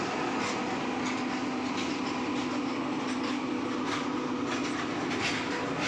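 Train pulling away slowly, running steadily with a low hum and faint irregular clicks of wheels over the rail joints.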